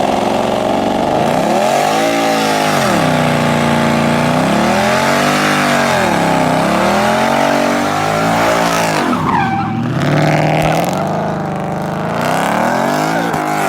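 Muscle car engine revving up and down in repeated swells while its rear tires spin and squeal as the car does donuts. About nine seconds in, the revs drop sharply and then climb again.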